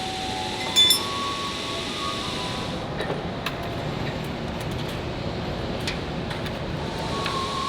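Steady factory machinery noise with one sharp metallic clink about a second in, followed by scattered light clicks and ticks.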